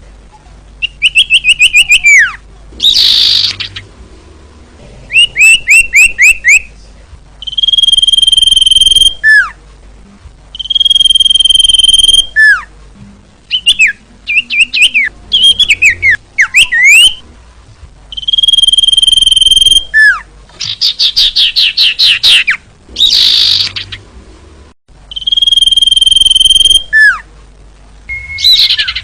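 Female common iora (cipoh) calling: long steady whistles of about a second and a half, each ending in a quick falling note, repeated several times and alternating with fast runs of sharp chirping notes and a couple of short harsh rasps.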